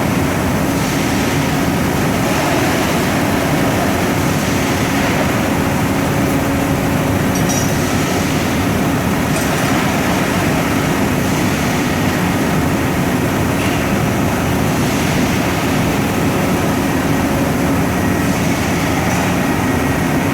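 Machinery running steadily, a constant loud mechanical noise with a low hum underneath that does not change.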